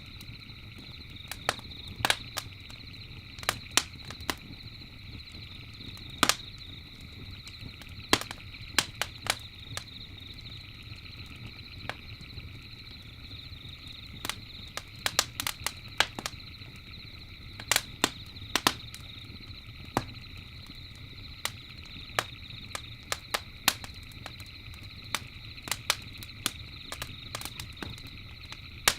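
Campfire crackling, with irregular sharp pops and snaps scattered through, several in quick clusters. Behind it runs a steady high chirring of night insects and a low even rush.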